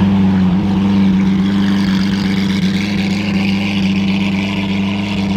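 Lamborghini Aventador's V12 idling steadily, a deep even note with no revs.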